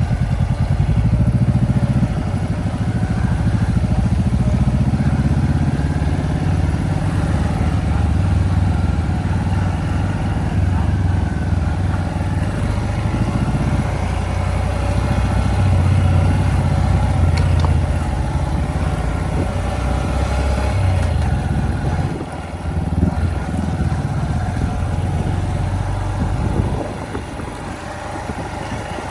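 Honda CB500X motorcycle engine running as the bike is ridden, its note rising and falling with the throttle, then dropping and quietening a few seconds before the end.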